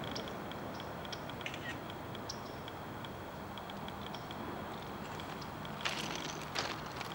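Steady low rumble of a distant approaching CSX freight train's diesel locomotives, with faint short high chirps over it. About six seconds in, a few sharp crackling rustles sound close by.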